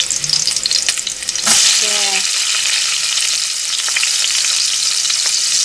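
Garlic sizzling in hot cooking oil in a pan; the sizzle jumps suddenly louder about a second and a half in and stays steady after.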